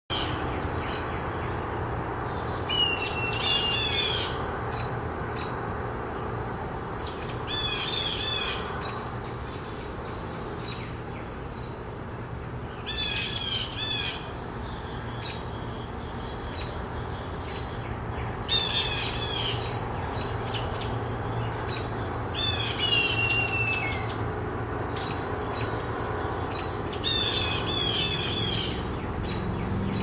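Birds mobbing a perched hawk, giving harsh squawking scold calls in short bursts about every five seconds, six bursts in all. The calls are alarm-and-harassment calls aimed at the predator.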